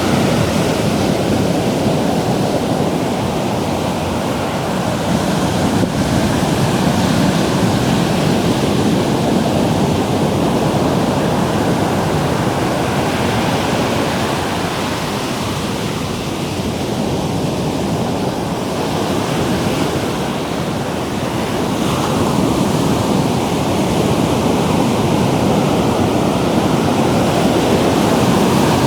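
Ocean surf breaking on a sandy beach: a continuous roar of waves that eases a little in the middle and builds again near the end.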